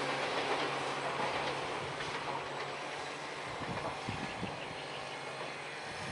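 Ohmi Railway electric train running past the crossing: steady rail and running-gear noise with a low hum that stops a little past halfway, the whole sound slowly dying away as the train recedes.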